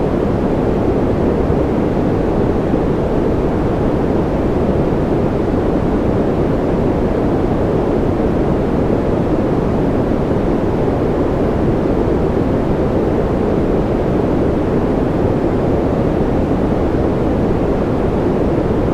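Steady, unchanging noise for sleep, deep and rushing rather than hissy, with most of its weight low down and little treble.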